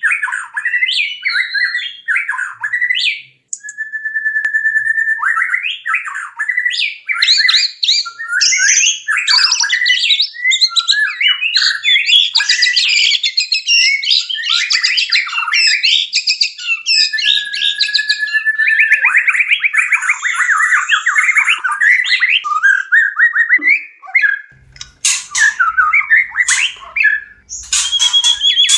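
White-rumped shama in breeding condition singing a long, varied courtship song: fast-changing whistles, rapid trills and harsh notes, with a few long steady whistled notes. A faint low hum joins under the song near the end.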